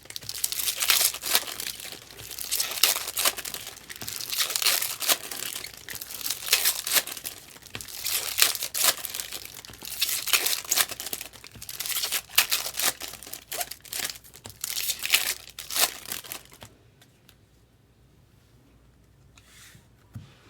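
Baseball card pack wrappers being torn open and crinkled in quick, irregular bursts as packs are opened one after another; the crinkling stops about three-quarters of the way through.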